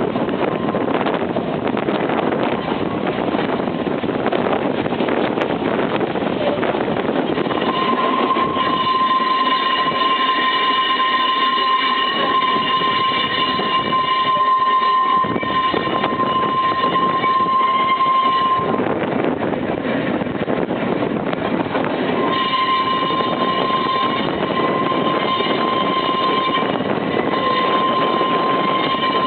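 Manx Electric Railway electric tramcar running along the line, with a continuous rumble and rattle of the car on the track. A steady high whine joins about eight seconds in, drops out around eighteen seconds, and comes back a few seconds later.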